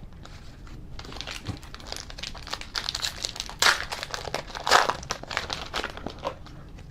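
Plastic trading card pack wrapper being torn open and crinkled in the hands, a run of irregular crackles and rustles with a few sharper crinkles partway through.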